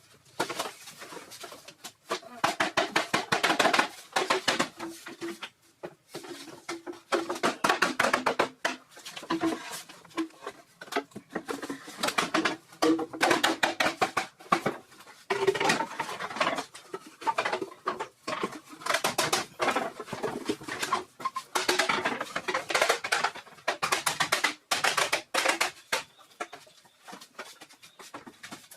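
Bursts of rapid clicking and scraping strokes from manual building work, in runs of a few seconds with short pauses between.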